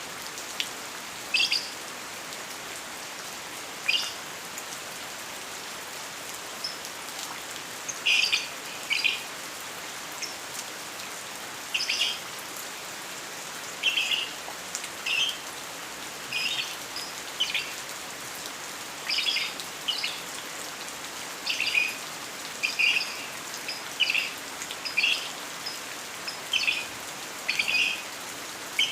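Lovebird giving short high chirps, singly or in quick pairs, every second or two and more often in the second half, over the steady hiss of rain falling.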